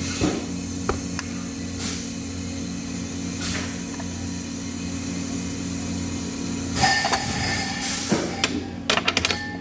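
Steady machine hum with brief bursts of hiss, a longer hiss about two-thirds of the way in, and a quick run of clicks and clinks near the end.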